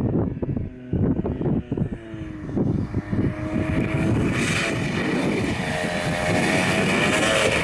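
Engine of a homemade light aircraft running unevenly at low speed, then revving up about two and a half seconds in and running at high power, its pitch wavering near the end.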